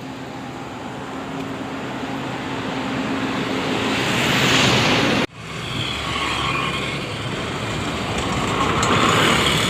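Motor vehicle and road noise while riding, a steady hum under a rushing haze that grows louder. It cuts off abruptly about five seconds in, then comes back and swells again.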